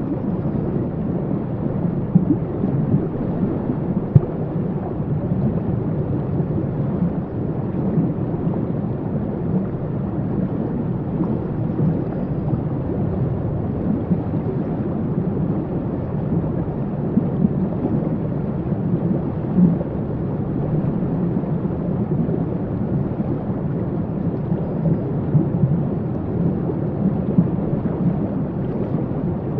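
Waterfall: a steady rush of falling water, deep and full in the low end, with small splashes flickering in and out.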